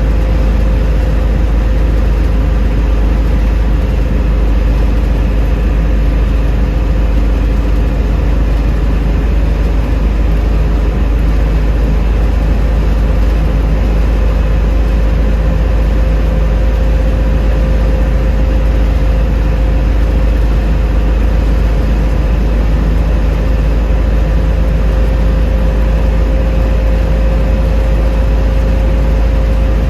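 Steady in-cabin road noise of a 1972 Ford Mustang Mach 1 cruising at highway speed: a deep, even rumble of engine, tyres and wind, with a faint steady hum on top.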